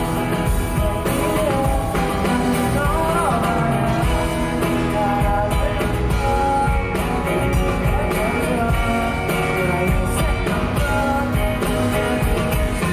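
Live pop-rock band playing an instrumental passage of a song, with a steady beat and no lyrics sung.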